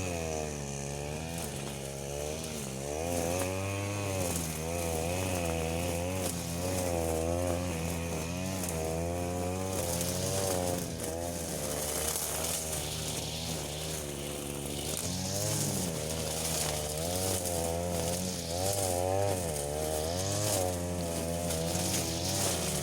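Small two-stroke engine of a handheld power tool running under load, its speed rising and falling about once a second as it cuts.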